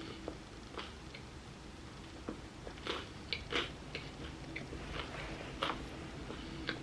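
Mouth chewing a bite of vegan chickpea "tuna" salad sandwich, with irregular short crunchy clicks, the loudest about three and a half seconds in and again near the end.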